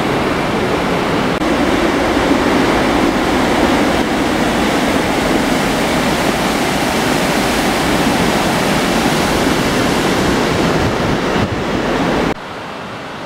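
Rushing river water: a loud, steady, even rush with no voices. It drops abruptly to a quieter hiss about a second before the end.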